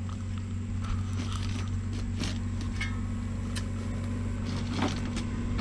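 Tractor engine running steadily at a low hum, with scattered scrapes and clicks of hand tools working rock and dirt.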